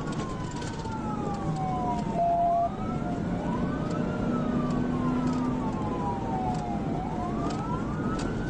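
Police cruiser's siren wailing in slow rising and falling sweeps, about one every two to three seconds, over the road and engine noise of the car at speed during a pursuit. A short steady blast sounds about two seconds in.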